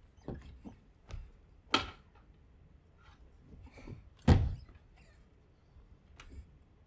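A few scattered knocks and thumps with quiet between them. The loudest is a heavy thump about four seconds in.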